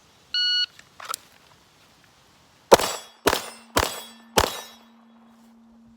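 A shot timer gives one short beep, then about two seconds later four handgun shots fire about half a second apart at AR500 steel targets, each with a ringing clang. A steel plate's steady low ring hangs on after the shots.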